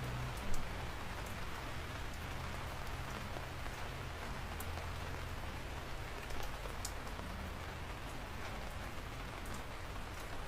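Steady rain falling, with single drops ticking sharply now and then over the even hiss, and a louder tap about half a second in.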